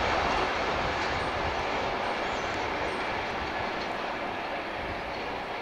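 Freight train wagons rolling past on the rails and moving away, the rumble fading steadily.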